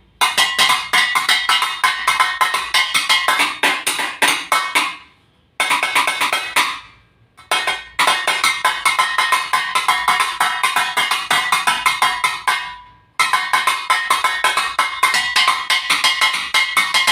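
Pieces of scrap metal struck in a fast, steady rhythm as improvised percussion, a ringing clatter. It pauses three times, the ringing dying away each time before the beating resumes.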